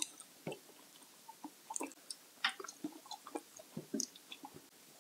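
Close-miked chewing and mouth sounds of someone eating, with scattered soft smacks and clicks at an uneven pace.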